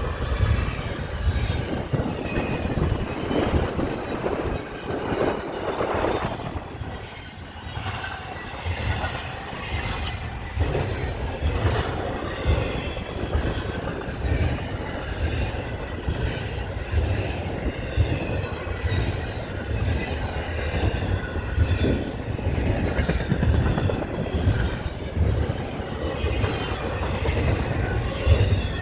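Train passing close by, its cars rolling past with a steady rumble, a rhythmic clatter of wheels and a high wavering wheel squeal.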